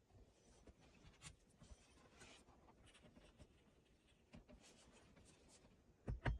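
Faint scratching and rubbing sounds, then near the end a quick run of about nine loud knocks in just over a second.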